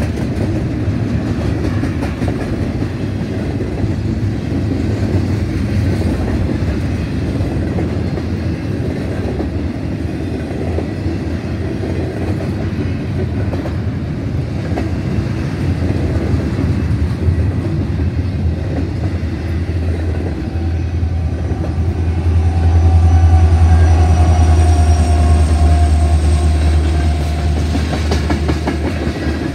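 Freight train of double-stack container well cars rolling past, with a steady rumble of steel wheels on rail and clickety-clack over the joints. About three-quarters through, the low rumble swells louder for several seconds, with faint thin wheel squeal over it.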